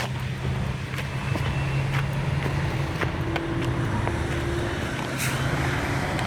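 Freight train rolling past with a steady low rumble and a run of sharp clicks about every half second, as the wheels cross rail joints.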